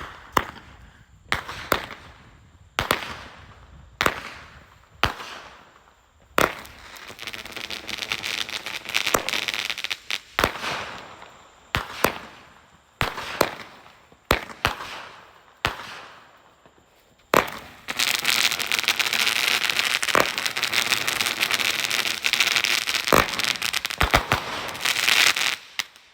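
Consumer firework cake firing shot after shot, a sharp bang about every second with a falling crackle trailing each, then a long dense crackling volley that stops abruptly near the end.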